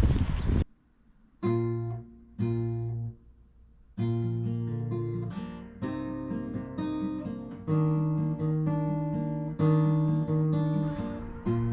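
Acoustic guitar music: two short strummed chords with pauses between them, then a steady strummed chord pattern from about four seconds in. Before the guitar starts, a loud noise cuts off abruptly under a second in.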